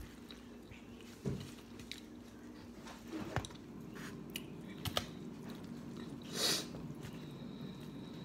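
Close-up chewing and mouth sounds of a person eating rice and gravy, with a few soft clicks and a short breathy noise a little past six seconds in.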